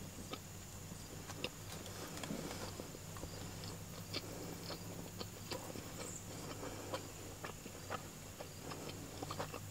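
A person chewing a mouthful of burger: faint, irregular mouth clicks and smacks, over a low steady hum.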